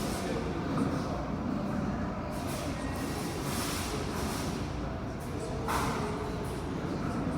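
Steady rumble and rushing noise of a Boeing 737-700 with its CFM56 jet engines running on the ground, with a brief sharper hiss about three quarters of the way through.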